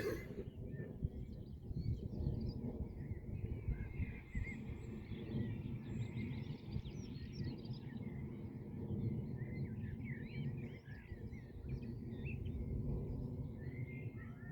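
Small birds chirping and singing in short, varied calls, over a low uneven rumble.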